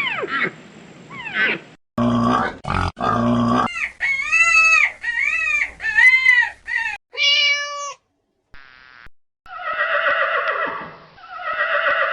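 A rapid series of different animal calls cut one after another with short gaps: a run of falling cries, a low grunting call, several rising-and-falling cries, a short held cry, and two long rough cries near the end.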